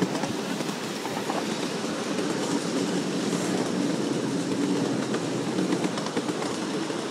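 Miniature railway train running along the track, its wheels rumbling steadily on the rails.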